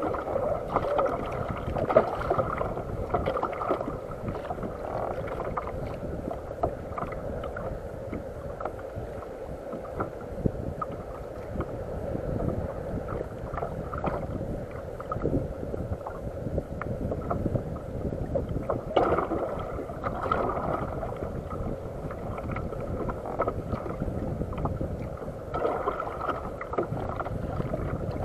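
Water splashing and lapping against a fishing kayak's hull, an irregular noise throughout, louder for a moment about two-thirds of the way in.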